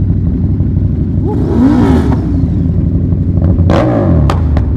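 KTM 1290 Super Duke R's V-twin running loud through an Austin Racing straight-through exhaust, with a rev rising and falling about two seconds in. A few sharp cracks follow near the end.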